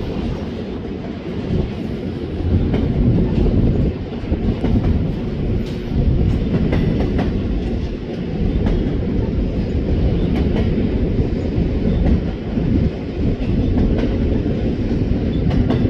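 BNSF double-stack intermodal freight train rolling past: a steady low rumble of steel wheels on rail, broken by scattered clicks and clanks as the container well cars go by.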